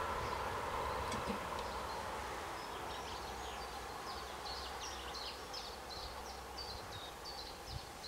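The rushing rumble of a departing diesel train fades away, and birds chirp in quick repeated bursts from about three seconds in.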